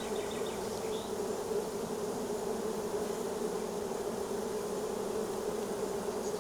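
Honey bees buzzing around an opened hive during a frame inspection: a steady, even hum that neither rises nor falls.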